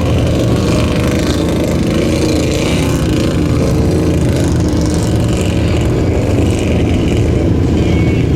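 Off-road vehicle engine running steadily and loudly, its pitch wavering slightly without a clear rev.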